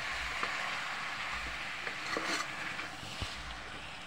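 Chicken, chopped tomatoes and carrots sizzling in a metal pot as they are stirred with a metal spoon. A steady frying hiss slowly fades, with a few faint clicks and scrapes of the spoon against the pot.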